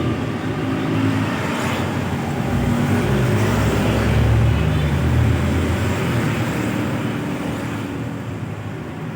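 Heavy truck engine running close by amid highway traffic, its pitch shifting up and down and growing fainter near the end.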